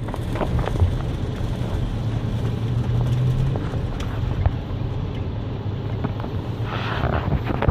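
Inside a moving car: a steady engine and road hum with tyre hiss on wet roads and wind on the microphone, and a brief louder rush near the end.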